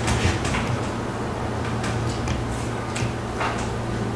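Mouth sounds of eating: irregular wet clicks and smacks of chewing over a steady low hum.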